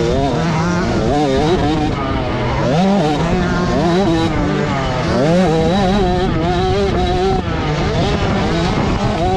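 Motocross dirt bike engines revving on the track, pitch climbing and dropping over and over as the riders work the throttle and shift, with several bikes heard at once.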